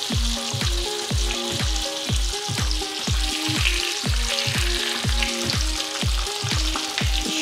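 Pork schnitzels sizzling as they fry in a frying pan, under background music with a steady kick-drum beat of about two and a half beats a second.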